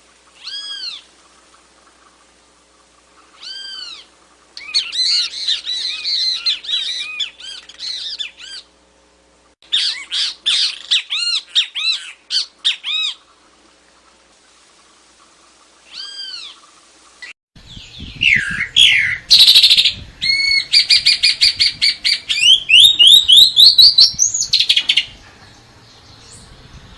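Birds singing: single arched, high whistled notes at intervals, then rapid runs of repeated notes. About two thirds of the way in, a different, louder bird takes over with fast sweeping trills and a series of quick notes that rise in pitch, stopping a couple of seconds before the end.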